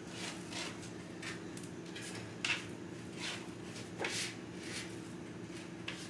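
An onion being peeled and handled on a cutting board: a run of short papery rustles and light knocks, two of them sharper about two and a half and four seconds in, over a steady low hum.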